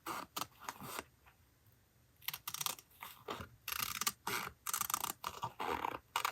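Paper being handled during collage journaling: short bursts of rustling and scratching, with a lull between about one and two seconds in.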